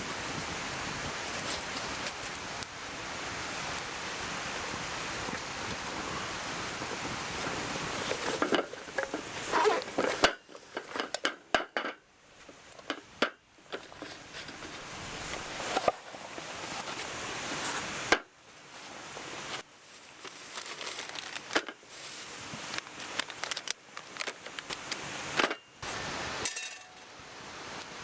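Steady rushing noise for about the first ten seconds, then a choppy run of short sections with clinks and knocks of metal camp cookware being handled and set down.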